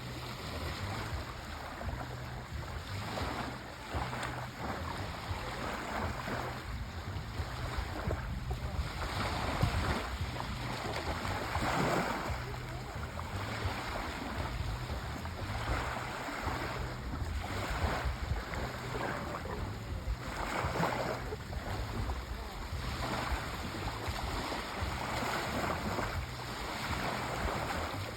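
Sea waves breaking and washing in, swelling every few seconds over a steady low rumble.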